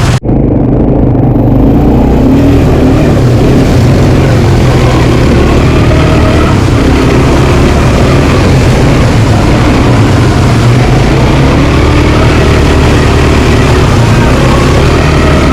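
Quad bike engine running steadily under way, loud and close, with road and wind noise mixed in; the sound cuts out for an instant right at the start.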